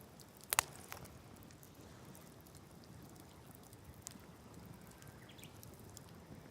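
Wood campfire crackling: a sharp pop about half a second in, then a few fainter snaps over a low steady hiss.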